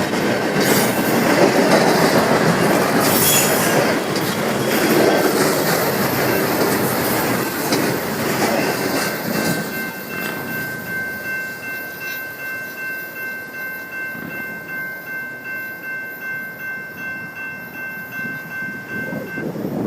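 BNSF intermodal freight train rolling past, its cars rumbling and the wheels clattering over the rail joints. About halfway through, the rumble eases into a rhythmic clickety-clack, and a steady high squeal from the wheels on the rail joins in.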